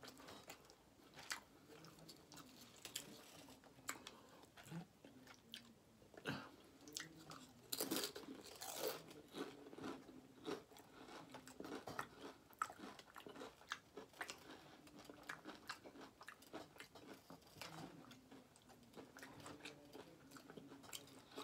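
Faint chewing with a scatter of crisp crunches from tortilla chips, loudest about eight to nine seconds in.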